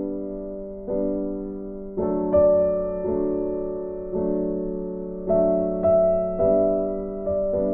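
Slow, gentle piano background music: soft chords struck about once a second, each left to ring and fade.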